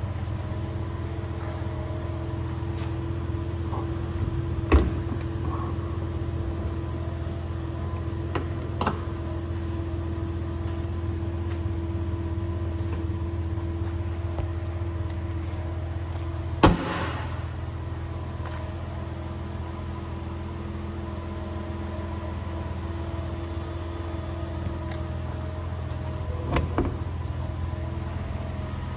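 1997 Porsche Boxster's 2.5-litre flat-six idling steadily, with a few sharp knocks over it, the loudest a little past halfway.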